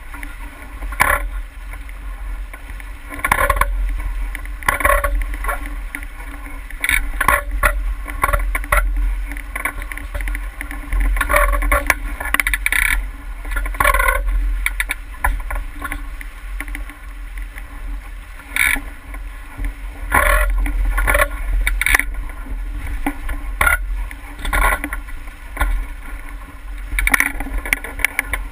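Water splashing irregularly against a 49er skiff's hull under sail, over a steady low wind rumble on the microphone.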